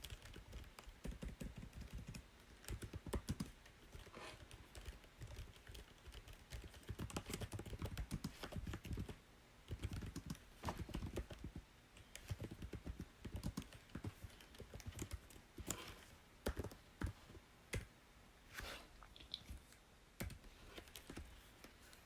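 Typing on a computer keyboard: quick runs of soft key clicks, broken by short pauses.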